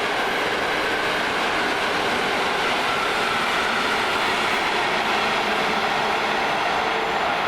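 A train running by on the track, a loud, steady rushing noise of wheels on rails.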